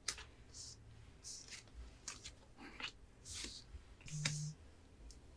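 Light clicks and rustles of hands handling sealed foil booster packs, with a brief low hum about four seconds in.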